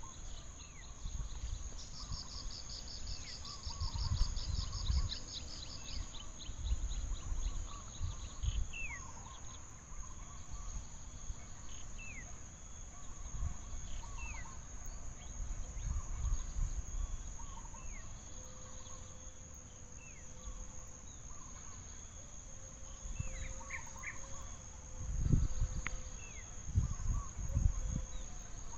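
Forest ambience: a steady high-pitched drone of insects, with a fast pulsed insect trill in the first few seconds and scattered short falling bird chirps. Low rumbling thumps come and go, loudest near the end.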